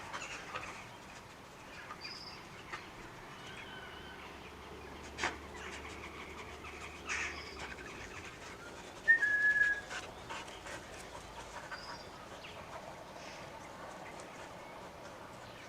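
Scattered short, high bird chirps every few seconds over light background noise. About nine seconds in comes one brief, loud, whistle-like tone.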